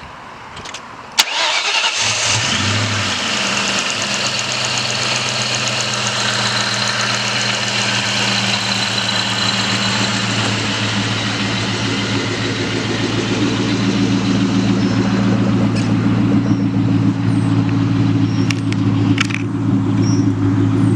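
2003 Ford Mustang SVT Cobra's supercharged 4.6-litre DOHC V8 cranks and catches about a second in, flares briefly, then settles into a steady idle.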